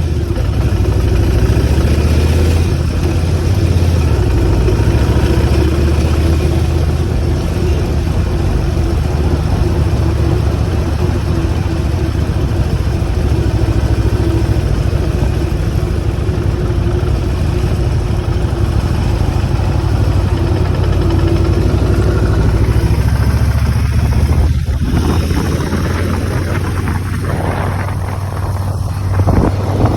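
Motorcycle engine running steadily at riding speed, with a constant rush of wind and road noise.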